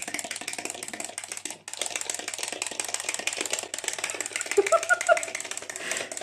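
A small moving toy rattling with a rapid, steady clatter of ticks, breaking off briefly twice, with a few short squeaks near the middle.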